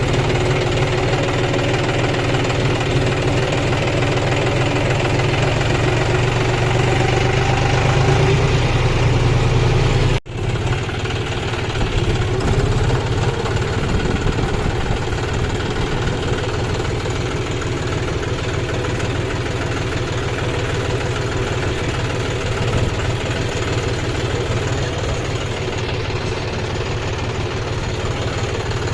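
Kubota combine harvester's diesel engine running steadily. The sound cuts out sharply for a moment about ten seconds in, then carries on a little quieter.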